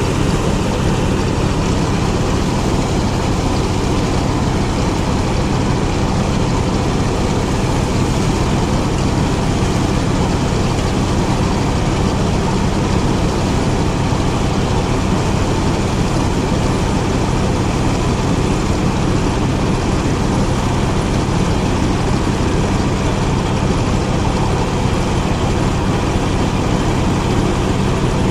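Engine-driven rice threshing machine running steadily, a constant loud engine drone under the rattle and rush of the threshing drum and blower.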